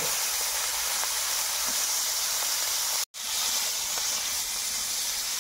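Chopped food sizzling steadily in hot oil in a wok, a loud frying hiss. It cuts out abruptly for a moment about three seconds in, then resumes.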